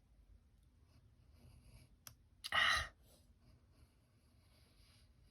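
Paper being handled and cut on a sliding-blade paper trimmer: a sharp click about two seconds in, then one short, loud swish of the blade running through the paper, with soft paper scratching around it.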